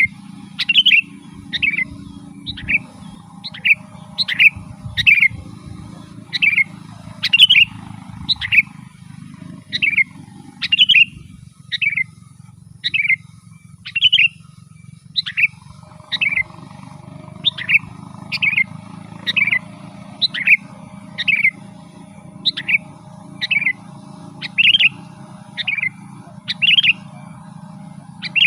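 Sooty-headed bulbul (kutilang) calling over and over: short, sharply falling notes, about one a second, sometimes in quick pairs. A steady low hum runs underneath.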